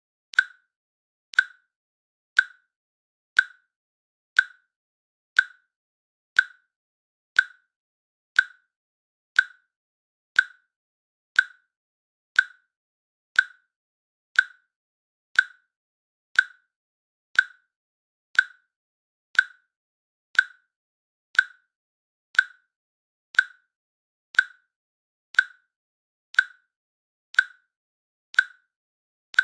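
A countdown timer's click sound effect, one short, sharp click every second, evenly spaced and identical, marking off each second of the countdown.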